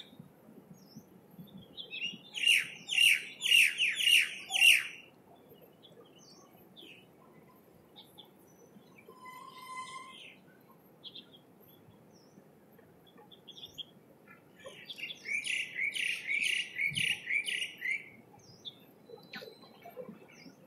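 Birds chirping: two bursts of quick repeated chirps, each about three seconds long, one a couple of seconds in and another about two-thirds of the way through. A few fainter calls come between them, over a faint low background rumble.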